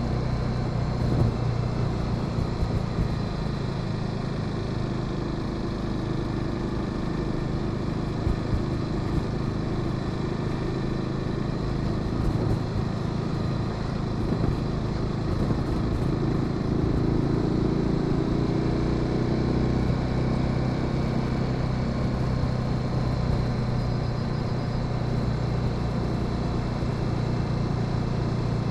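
Honda Sahara 300 motorcycle's single-cylinder engine running steadily under way, its pitch climbing for a few seconds past the middle as it speeds up.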